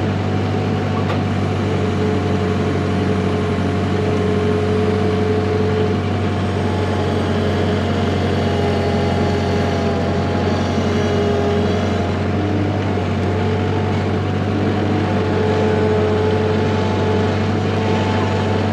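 An engine running at a steady speed: a constant low hum with faint steady higher tones above it.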